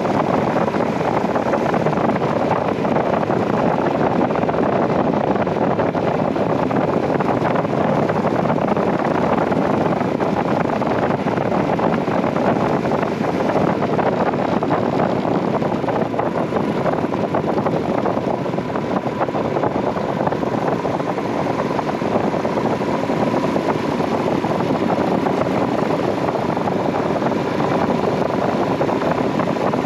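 Royal Enfield Himalayan's 411 cc single-cylinder engine running steadily while the motorcycle is ridden, mixed with wind rushing over the microphone.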